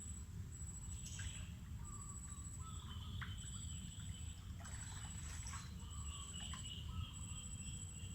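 Mangrove forest ambience: birds chirping and calling, with an insect's high, pulsing trill that starts and stops in stretches, over a steady low rumble.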